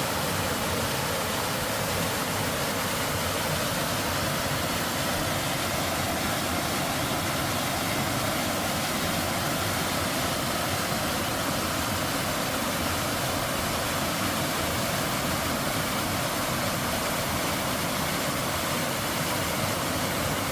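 Mountain valley stream rushing over rocks: a steady, even wash of water noise with no change throughout.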